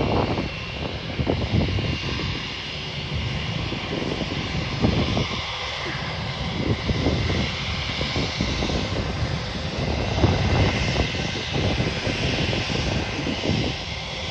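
Jet airliner engines running steadily, a thin whine over a broad, uneven rumble.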